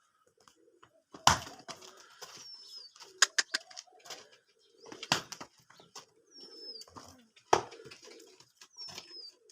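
Birds calling: low cooing with short, high, falling chirps repeating every few seconds. Several sharp knocks cut through, the loudest at about one, five and seven and a half seconds in.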